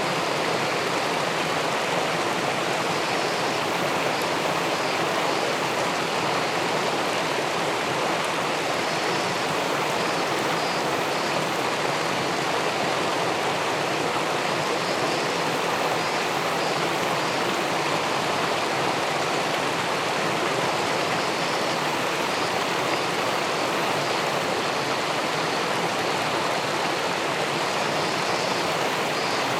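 Steady, unbroken rush of river water churning in the pool below a small weir.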